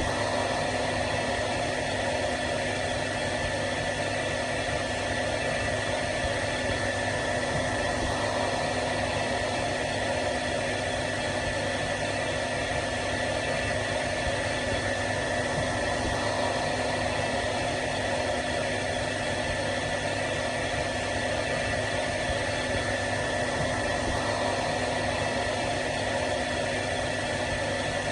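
Hair dryer running steadily: a constant rush of air with a steady high motor whine over it.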